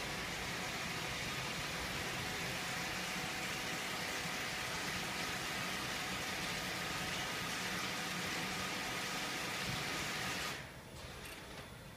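Box folder-gluer machine running, a steady hiss with faint hum tones that cuts off suddenly about ten and a half seconds in.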